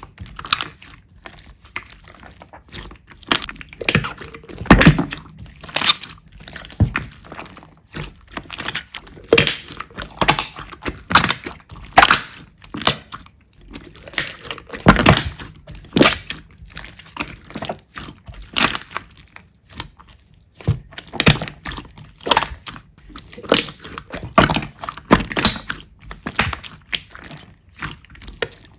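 Slime being squished and pressed by hand, making a steady string of irregular pops and crackles.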